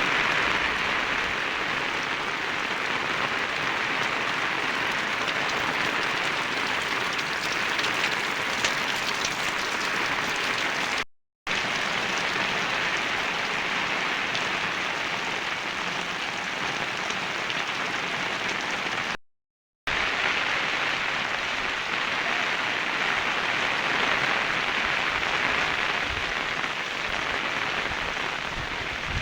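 Steady rain falling, an even hiss that cuts out completely for a moment twice.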